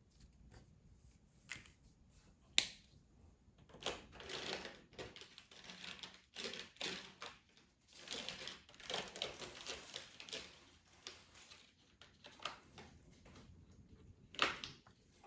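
Colouring strokes scratching across paper in runs of quick back-and-forth strokes, with a few sharp clicks, the loudest a little over two seconds in and another near the end.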